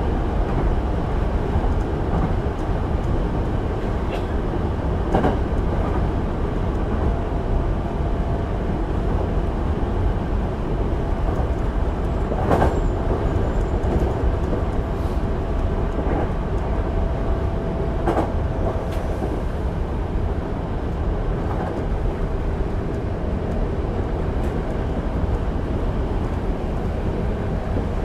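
Running noise of a Hankyu 8000-series electric train at speed, heard from inside the car: a steady rumble of wheels on rail, with a few sharp clicks from the track about halfway through.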